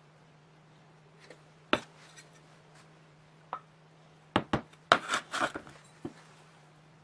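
Scattered sharp knocks and clicks of tools or parts being handled on a workbench, with a quick run of knocks and a short scraping clatter about five seconds in, over a steady low hum.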